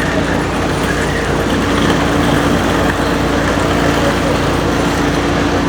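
Busy city street: steady traffic with a vehicle engine running close by, giving a continuous low hum with a steady tone in it.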